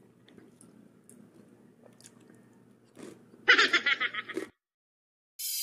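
A person chewing crispy deep-fried pork belly (lechon kawali) and rice with the mouth closed: faint chewing with small clicks, then a loud burst of crunching on the crackling skin about three and a half seconds in, lasting about a second. It stops abruptly, and music starts right at the end.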